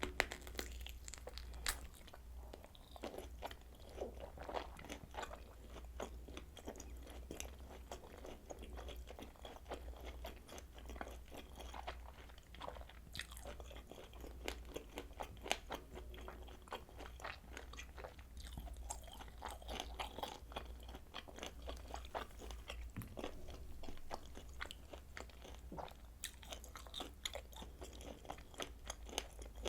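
Close-miked chewing and biting of kielbasa sausage: a continuous run of quick, wet, irregular clicks and crunches of mouth and food.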